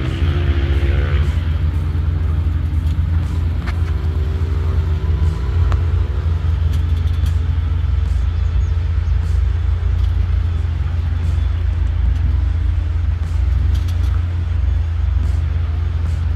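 Ford Bronco II's engine running at low speed while rock crawling off-road, with a deep steady rumble and its note swelling twice, near the start and again around five seconds in.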